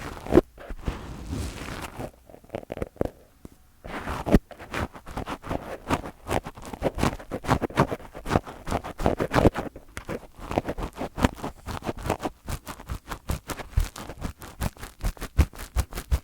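Fingers touching and rubbing directly on a microphone: soft brushing swishes at first, then from about four seconds in a fast, uneven run of scratchy taps and rubs, several a second.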